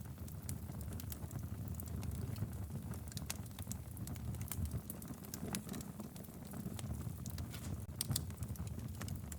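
Log fire burning in a fireplace: a steady low rumble of flames with scattered sharp crackles and pops from the burning wood, a few louder pops about three, five and a half and eight seconds in.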